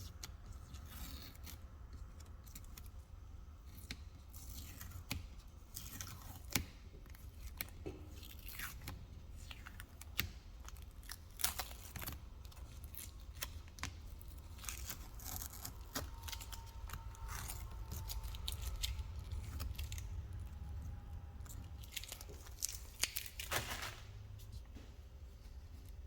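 Irregular scraping, tearing and clicking of close-up hand work, over a steady low hum.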